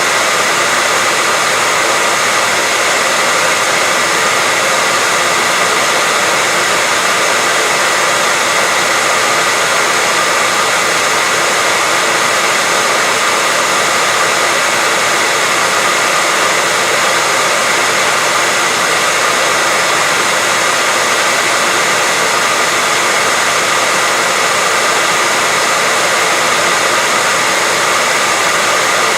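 Continuous white noise for sleep or relaxation: an even, unchanging hiss, mostly treble with little bass.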